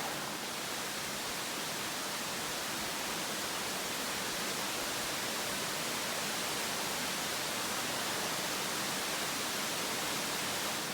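Crabtree Falls' cascading water rushing as a steady, even hiss.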